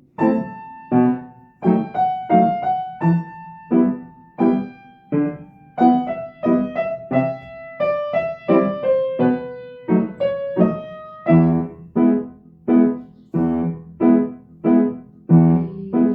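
Piano played slowly: a melody over left-hand chords, with notes struck about twice a second. The bass grows fuller about eleven seconds in.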